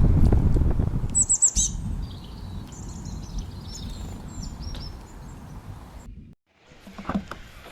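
Birds chirping: a quick run of high chirps about a second in, then softer calls, over a low rumble that is loudest at the start and fades. The sound drops out briefly near the end.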